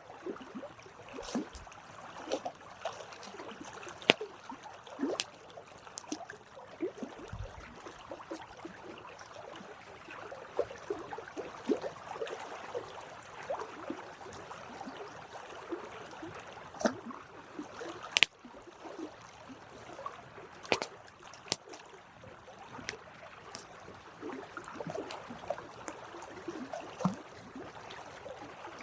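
Campfire burning with a steady crackle and irregular sharp pops and snaps of the wood, a few much louder ones about 4 and 18 seconds in.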